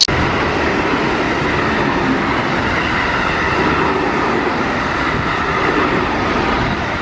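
A freight train running past on the rails, a loud, steady rumble of wheels and cars that starts abruptly.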